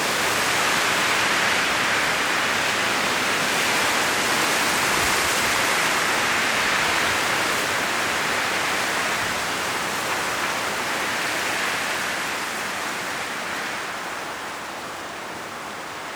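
Strong wind rushing through autumn forest trees, with dry leaves rustling. The gust holds steady and eases off a little near the end.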